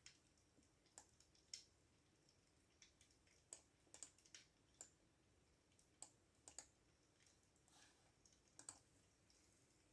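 Faint computer keyboard typing: about a dozen separate key clicks at an slow, uneven pace, some in quick pairs.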